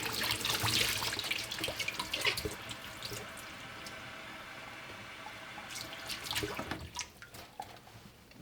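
Water running from a tap into a sink, with splashing and small knocks for the first couple of seconds, then a steadier stream. It stops about seven seconds in, after a few more knocks.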